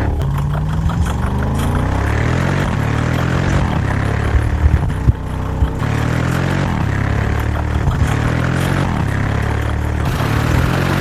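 An engine running and revving, its pitch rising and falling again and again, with a few sharp knocks about halfway through.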